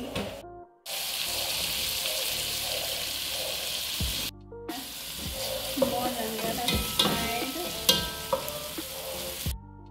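Chicken pieces and onions frying in a pot with a steady sizzle, cut off briefly just after four seconds. In the second half a metal spoon stirs them and knocks against the pot.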